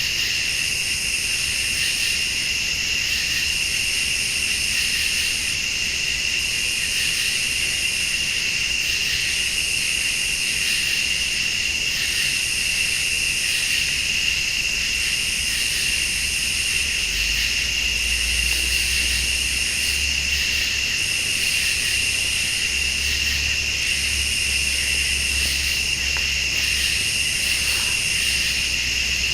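Night chorus of crickets and late-summer insects: a steady, high cricket trill with a still higher insect call pulsing on and off about once a second. A low rumble swells and fades twice in the second half.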